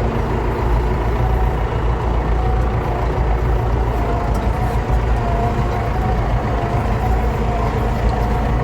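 David Brown 1490 tractor's four-cylinder diesel engine running steadily at a low travelling pace, with faint knocks and rattles as it goes over a rough track.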